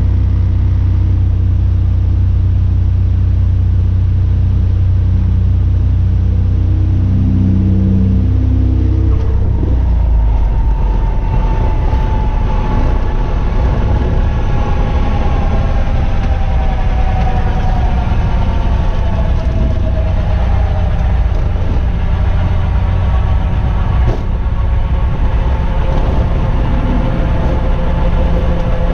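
Cessna Cardinal RG's piston engine and propeller heard from the cockpit, running steadily for about nine seconds; then the sound turns rougher, and a whine slowly falls in pitch over the next ten seconds or so.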